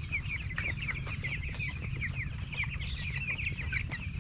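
A flock of 14-day-old broiler chicks peeping, many short falling chirps overlapping in a continuous chorus, over a low steady rumble.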